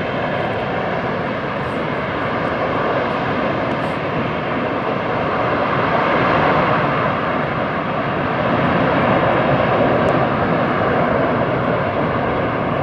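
Semeru volcano's crater venting ash continuously: a steady rushing noise of gas and ash jetting from the vent, swelling a little about halfway through and again later.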